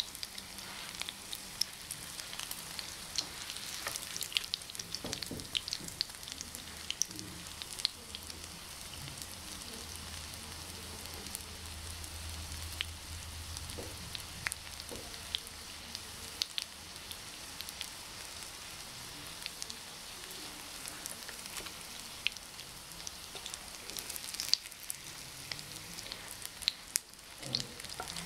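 Breaded potato patties frying in shallow oil in a nonstick pan: a steady sizzle with frequent sharp crackling pops.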